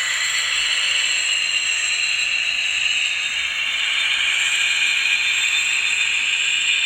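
N gauge model locomotive with a DCC sound decoder running, its engine sound coming thin and tinny from the tiny onboard speaker, with a slow wavering in pitch.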